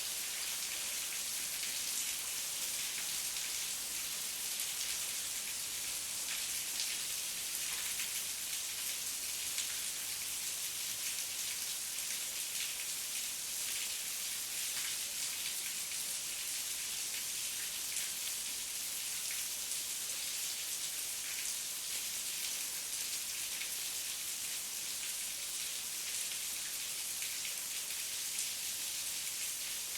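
Heavy rain falling steadily as an even hiss, with many individual drops pattering on a surface.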